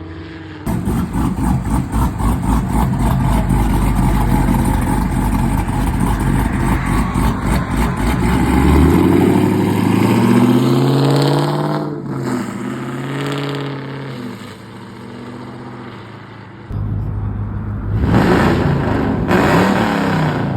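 Car engines accelerating hard as cars pull out. A loud engine comes in suddenly about a second in and climbs in pitch before breaking off and fading. A second car's engine comes in suddenly near the end and revs up again.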